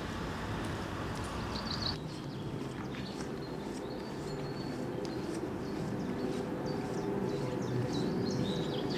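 Small birds chirping in short, high calls, over a steady rushing background noise.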